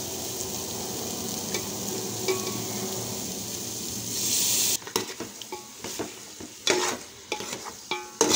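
Marinated chicken frying in onion masala in an aluminium pot, with a steady sizzle that swells about four seconds in and then cuts off suddenly. After that, a spoon stirs and scrapes against the pot with sharp irregular clicks.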